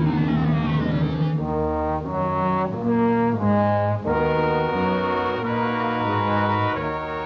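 Brass-led orchestral cartoon score. It opens with a falling slide in pitch and moves into a series of held chords.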